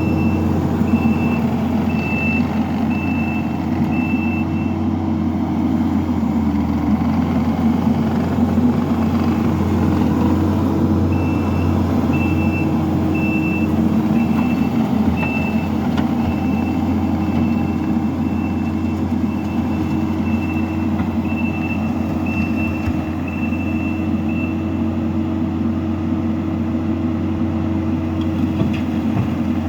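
Kubota SVL65 compact track loader's diesel engine running steadily under work, with its reverse alarm beeping about one and a half times a second while it backs up, briefly near the start and again for about 13 seconds from the middle on.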